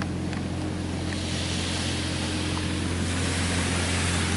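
Spray from a touchless car wash's pre-soak arm hitting the car, heard from inside the cabin as a hiss that swells about a second in, over a steady low hum.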